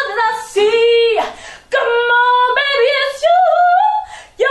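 A woman singing unaccompanied, holding long notes in three phrases with short breaths between them.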